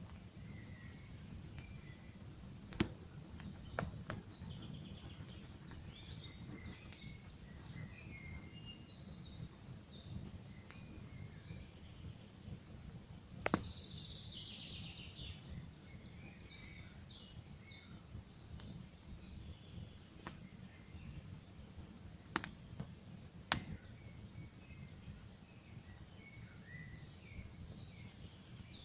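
Wood campfire crackling, with a handful of sharp pops over a low steady rumble. Small birds chirp and sing throughout, with a denser burst of birdsong about halfway through.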